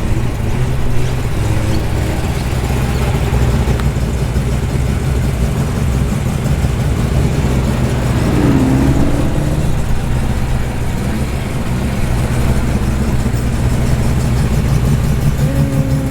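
Performance car engines idling and running at low speed as cars roll past, a steady loud low engine note.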